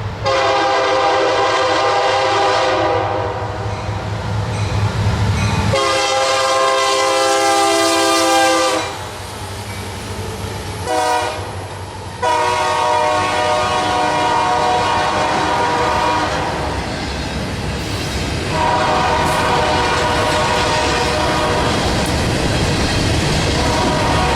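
Horn of a Union Pacific SD70M diesel locomotive leading a freight train, sounding two long blasts, a short one, then a long drawn-out blast: the grade-crossing warning pattern. Wheel and engine noise of the passing train runs underneath.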